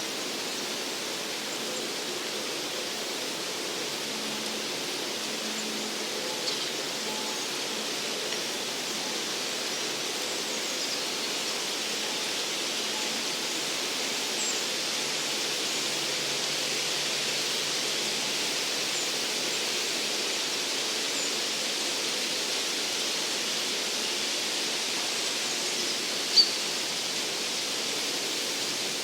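Forest ambience: a steady rushing hiss with a few short, high bird calls scattered through it, the loudest one sharp and brief near the end.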